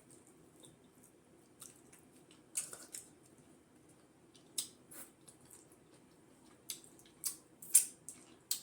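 Wet smacking and clicking sounds of eating, a few irregular ones every second or so, the loudest and most frequent near the end.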